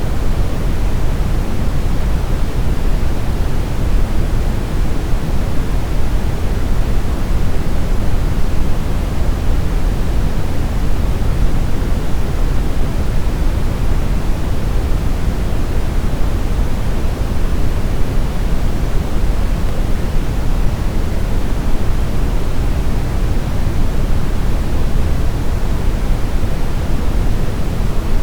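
Steady synthetic brown noise: a deep, even rumble of random noise, loudest in the bass and falling away toward the treble, with no changes.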